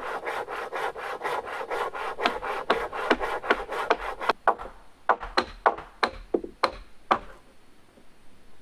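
Wood being sawn by hand: quick, even strokes that give way about halfway to a few slower, harder strokes before stopping.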